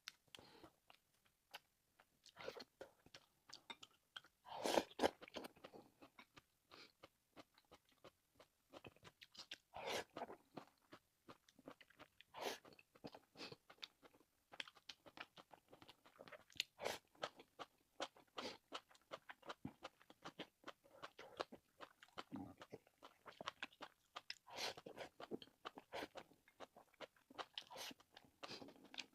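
Close-miked chewing and biting of braised meat: an irregular run of small wet clicks and smacks, with louder bites every few seconds.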